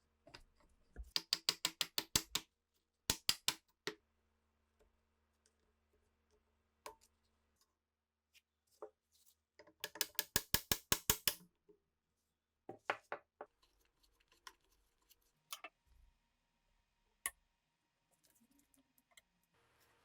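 Two bursts of rapid, evenly spaced clicks, about eight a second, from hand work on rifle parts, with scattered single knocks and taps between them.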